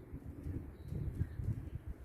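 Uneven low rumble of wind buffeting the microphone by the lakeshore, with a faint single bird chirp about a second in.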